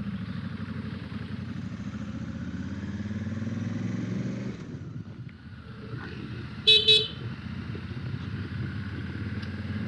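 Honda Africa Twin CRF1100L's parallel-twin engine running under way, its note climbing as the bike accelerates, easing off briefly about halfway through, then pulling on again. A short, loud, high-pitched beep sounds about seven seconds in.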